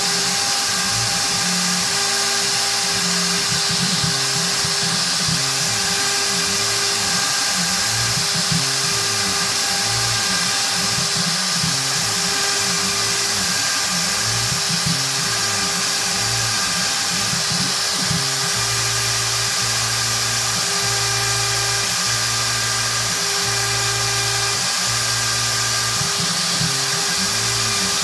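CNC router cutting G10 fibreglass quadcopter frames: the spindle whines steadily while the axis motors hum at pitches that keep shifting as the cutter moves, settling into steadier tones about two-thirds of the way through.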